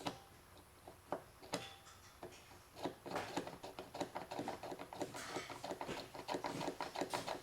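Small hard parts clicking and tapping as the disassembled ignition switch is handled: a few separate clicks, then a rapid run of many light taps and rattles from about three seconds in.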